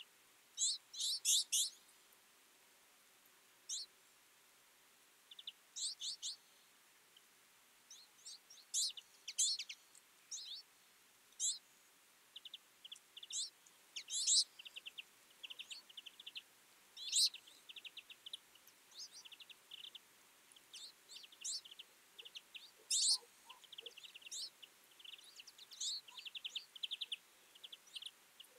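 A flock of twites calling: short high chirps and quick twittering trills, many in irregular succession and overlapping, growing busier after the first few seconds.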